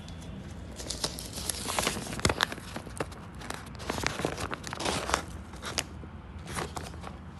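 Plastic sack crinkling and rustling in irregular bursts with sharp crackles as it is handled, loudest about two seconds in.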